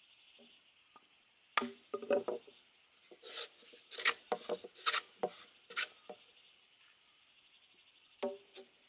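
Hand tool scraping and shaving wood in a run of short, quick strokes, pausing for a couple of seconds and starting again near the end.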